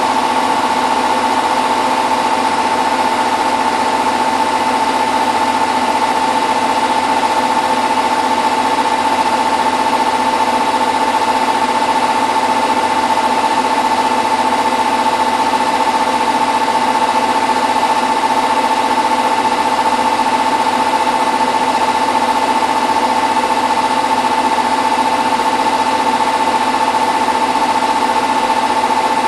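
Hotpoint WT960 washing machine in its final 1600 rpm spin, running at a constant speed: a steady high-pitched motor whine over an even rushing noise.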